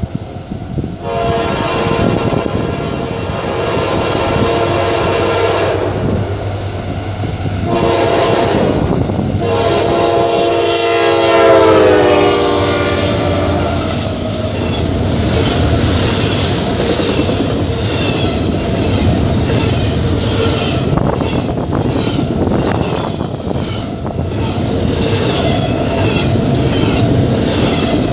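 A freight locomotive's air horn sounds several long blasts as the train approaches, the last one dropping in pitch as the locomotive passes. Then the double-stack container cars rumble and clatter past over the rail joints.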